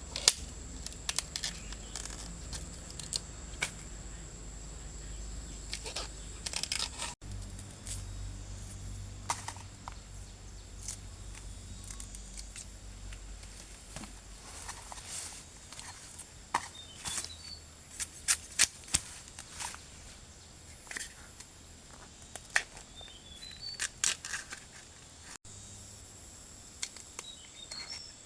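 Scattered sharp cracks, snaps and crunches of plant stalks being broken and trodden, as when wild bamboo shoots are picked. Under them runs a steady high insect whine, and a few short bird chirps come in the second half.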